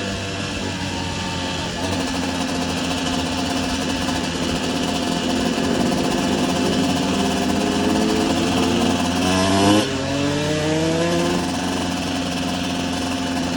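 Dirt bike engine pulling under throttle, its pitch climbing steadily, then dropping sharply about ten seconds in as it shifts up a gear, and climbing again.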